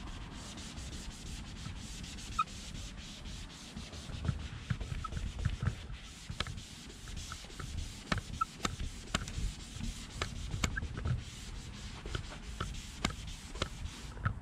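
A cloth rag rubbing on plastic car door trim, wiping it down with trim cleaner. The rubbing comes in uneven strokes with scattered light clicks and ticks, and grows busier a few seconds in.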